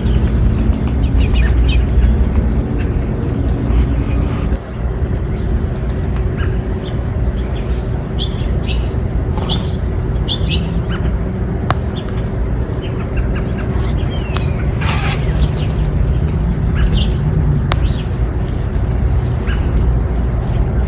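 Small birds chirping with short, sharp calls scattered throughout, over a steady low rumble.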